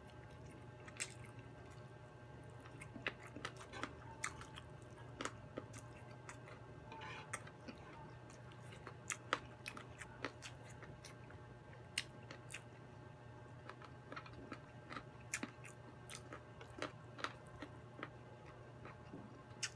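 Close-miked chewing of fried chicken and rice: irregular wet mouth clicks and smacks, with an occasional crunch, over a faint steady low hum.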